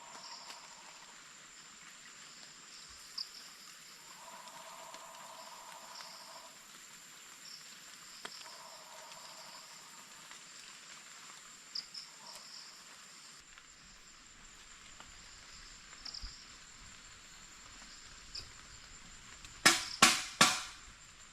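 Night insects trilling steadily, with a high continuous whine and scattered chirps. Near the end come four sharp, loud knocks in quick succession.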